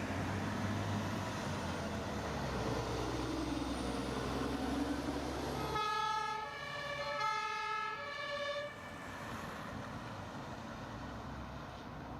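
A fire engine on an emergency run, its engine and road noise under a siren. For about the first six seconds the siren is a slow rising and falling tone; then comes a high-low two-tone horn, alternating for about three seconds, after which only traffic noise remains.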